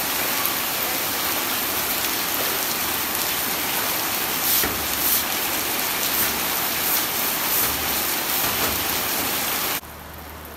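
Heavy rain pouring down, a loud steady hiss, with a few brief louder strokes in the middle from a broom sweeping water across a wet floor. Just before the end it drops suddenly to a quieter rush.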